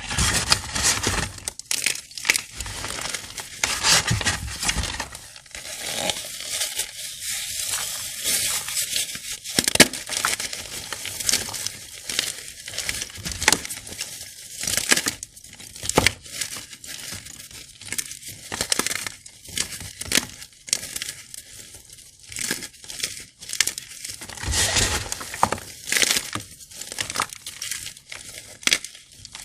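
Crunchy gym-chalk blocks dusted with sand and glitter being crushed and crumbled by hand: dense, irregular crunching and crackling that comes in bursts with short pauses.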